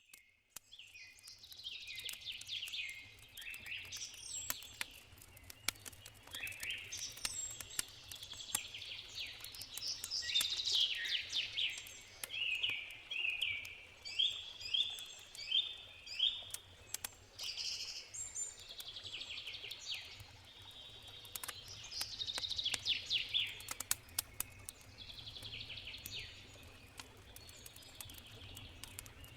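Woodland birds singing, with repeated short trilled and chirping phrases, over scattered sharp crackles from a campfire and a faint low steady rush of a river.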